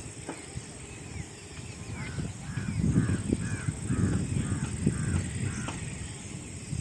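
A crow cawing in a run of about eight calls, roughly two a second, over a steady high-pitched tone.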